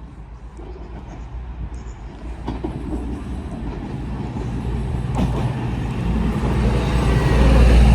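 A train approaching, its low drone growing steadily louder.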